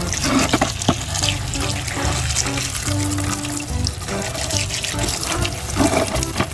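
Running water splashing as muddy toy vehicles are washed, over background music with held notes and a bass line.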